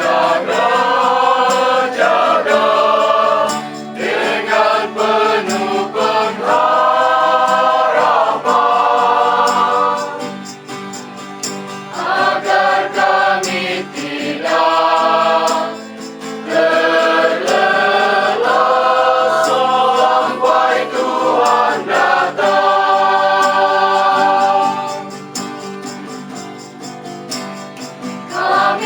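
A group of voices singing together in harmony, holding notes in phrases a couple of seconds long with short breaks between them. The singing softens briefly about ten seconds in and again near the end.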